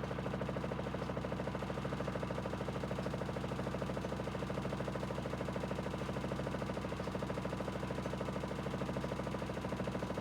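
Aidoo 1 kg mini washing machine in its final spin, its direct-drive motor and drum running steadily near 800 rpm, with a steady hum and a fast, even pulsing rattle.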